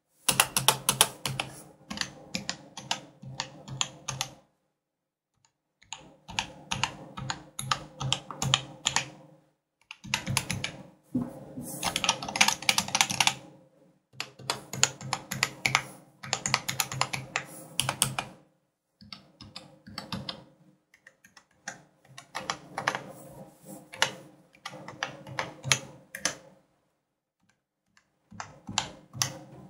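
Typing on an Everest Rampage KB-R88 mechanical keyboard: rapid runs of key clicks in bursts of a few seconds, broken by short pauses. Some keys sound deeper and others higher-pitched, the space bar among the higher ones.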